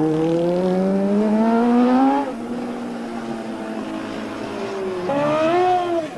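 Racing superbike motorcycles at speed: one engine climbs steadily in pitch under acceleration and drops away about two seconds in, then a second bike's note rises from about five seconds in and falls away just before the end.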